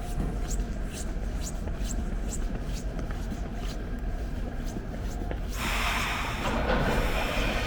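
Low station rumble, then about five and a half seconds in a sudden rush of hissing noise as a rubber-tyred Montreal metro train comes into motion at the platform.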